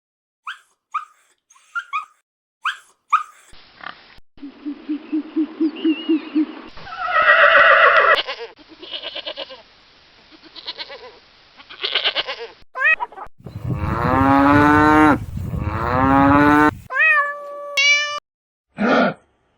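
A run of different animal calls cut one after another: short high chirps, a pulsed low call, then several long calls that rise and fall in pitch, the longest and loudest about two-thirds of the way through.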